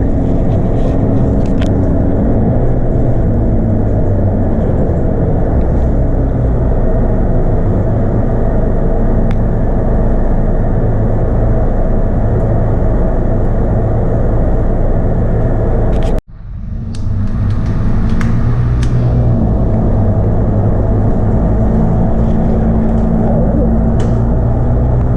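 Inside a moving Scania K230UB bus: the 8.9-litre five-cylinder Scania DC9 diesel running steadily under way, with road and cabin noise. About two-thirds of the way through, the sound drops out for a moment and then returns.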